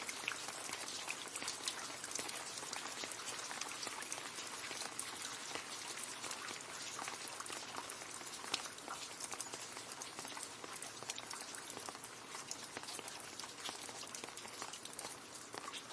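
Rain falling steadily into a puddle: a dense patter of drops splashing on water.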